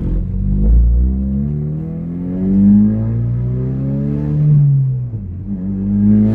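Ford Focus RS Mk3's turbocharged 2.3-litre four-cylinder with a straight-piped exhaust, accelerating. It climbs steadily through the revs for about four seconds, drops briefly around five seconds in for a gear change, then climbs again.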